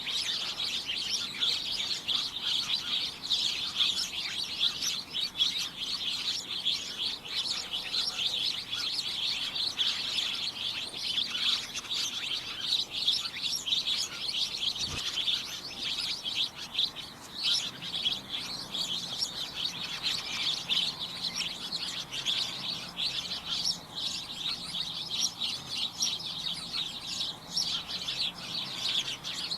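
Several small birds chirping together in a dense, unbroken, overlapping chorus of short, high chirps.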